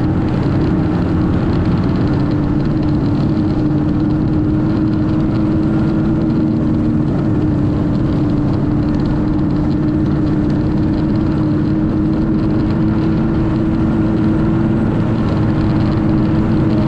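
Snowmachine engine running at a steady speed, its pitch holding even throughout.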